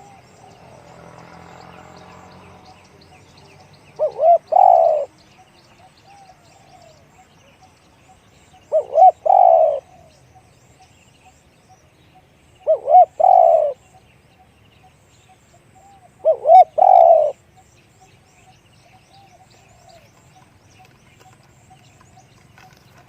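Spotted dove cooing four times, about every four seconds, each phrase two short notes and then a longer held coo.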